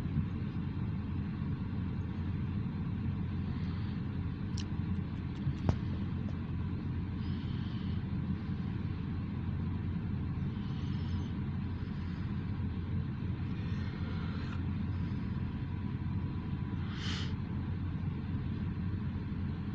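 Short freight train of tank cars rolling past with a steady low rumble. A few sharp clicks come near the start and again around four to six seconds in, and there is a brief higher hiss or squeal near the end.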